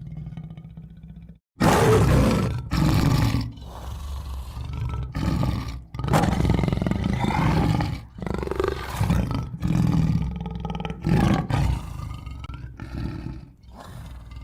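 A tiger roaring and growling: after a brief silence about a second and a half in, a series of loud separate roars, each lasting up to about two seconds.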